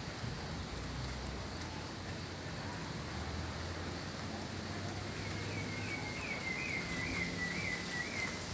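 Steady outdoor hiss of rain and wind ahead of a storm, with a low rumble underneath. About five seconds in, a high call of about six quick rising-and-falling notes runs for some three seconds, like a bird's.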